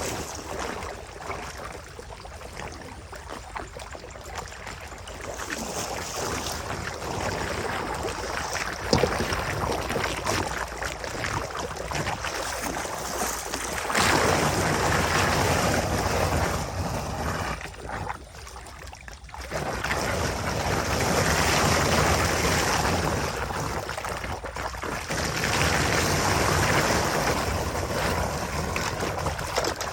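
Rushing water with wind buffeting the microphone, a steady noise that swells and fades in loudness and drops away briefly a little past the middle.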